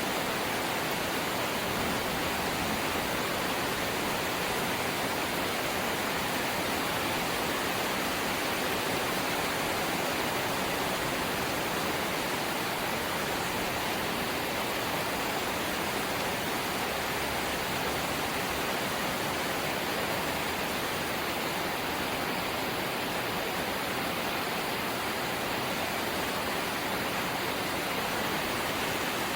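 Steady heavy rain on a corrugated zinc sheet roof, an even, unbroken hiss of drops.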